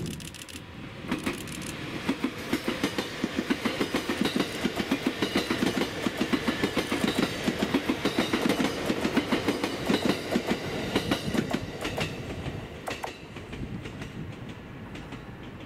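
Echigo Tokimeki Railway ET127 series electric train of three coupled two-car sets passing close by, its wheels clacking quickly and evenly over the rail joints. The clacking lasts about ten seconds, then fades as the train moves away.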